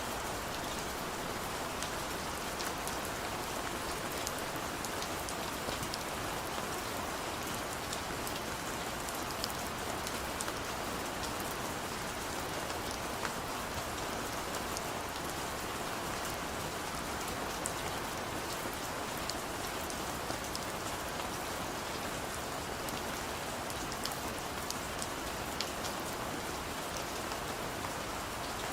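Heavy rain falling steadily, a dense even hiss with many small drop ticks on a surface.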